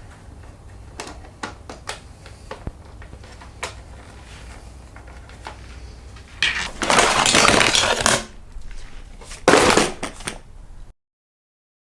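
Vinyl graphics being peeled off a Honda XR50 pit bike's plastic bodywork. Small clicks and taps of handling come first, then a long ripping tear about six and a half seconds in and a shorter one near ten seconds. The sound then cuts off suddenly.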